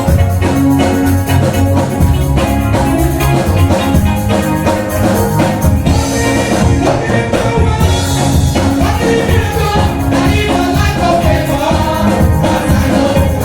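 Live gospel music with a steady drum beat, and voices singing over it in the second half.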